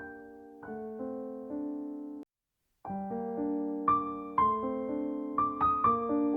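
Background piano music: soft notes and chords played at an easy pace. It breaks off for about half a second a little over two seconds in, then comes back with brighter, higher notes.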